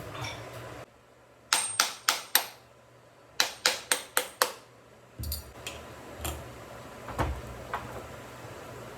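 Two quick runs of sharp knocks, four and then five, each dying away fast, with a pause between them, followed by a quieter stretch of room sound with a few soft knocks.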